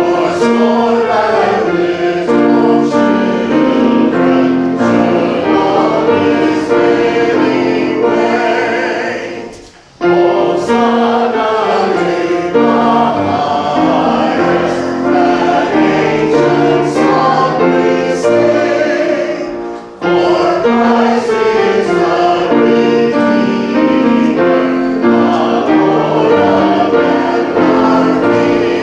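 Church congregation singing a hymn together with instrumental accompaniment. The singing breaks off briefly about every ten seconds, between lines.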